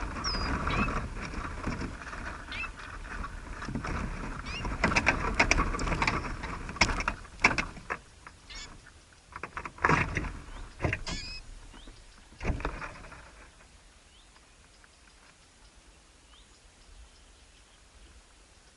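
Small birds chirping in short high calls, with bouts of rustling and scratching. The rustling stops about two-thirds of the way through, leaving only faint, scattered chirps.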